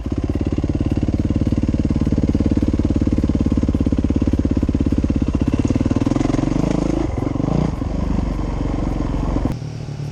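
Dirt bike engine running under throttle, fairly steady for several seconds. About seven seconds in it rises and falls in pitch a couple of times, then drops back near the end.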